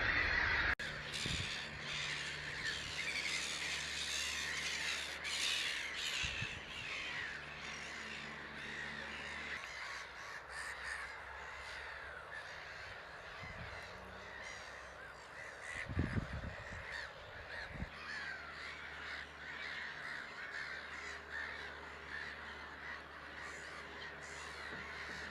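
A dense chorus of many birds calling at once, with overlapping harsh cries throughout. A faint steady low hum runs underneath, and a low knock sounds about 16 seconds in.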